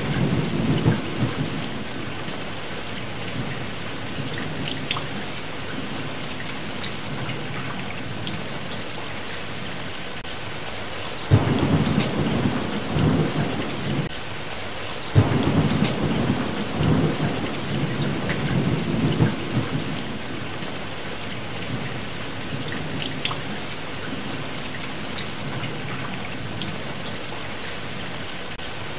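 Steady heavy rain falling, with rolling thunder that rumbles low near the start and again about a third of the way in, where two peals break in suddenly a few seconds apart.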